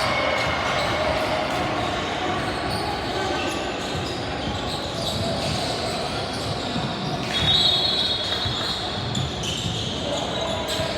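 A basketball bounces on a hardwood gym court among the voices of players and spectators in a large echoing hall. About seven and a half seconds in there is a brief high-pitched squeal.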